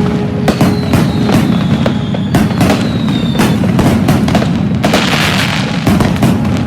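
New Year fireworks and firecrackers going off in quick succession: many sharp bangs close together over a continuous low rumble. A thin whistle falls slightly in pitch through the first half, and a burst of hiss comes about five seconds in.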